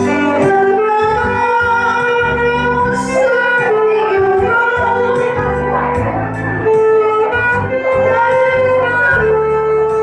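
Saxophone playing a slow, legato melody with long held notes over a backing track with bass and a steady hi-hat beat.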